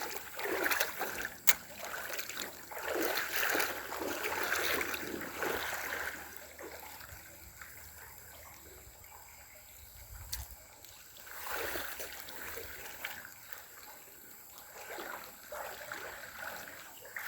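Water splashing and trickling against a small boat as it is moved up to a new fishing spot. The sound comes in uneven swells, eases off for a few seconds in the middle, and has a sharp click about a second and a half in and another near the middle.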